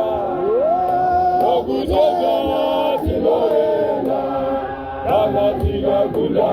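A group of voices singing a chant-like church hymn together, with a few low thuds underneath.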